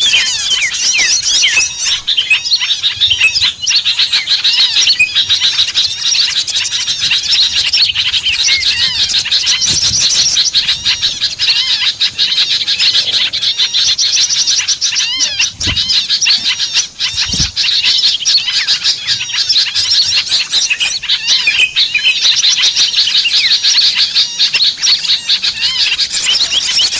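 Dense, unbroken chorus of many small birds chirping and twittering at once: a lure call (suara pikat) played to draw small birds in.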